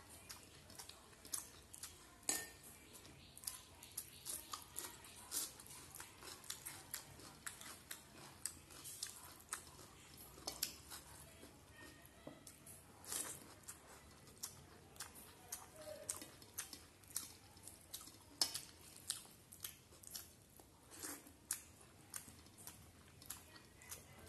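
Close-up chewing and wet mouth smacks and clicks while eating rice and fish curry by hand, with the occasional tap of fingers on a steel plate; many short, irregular clicks.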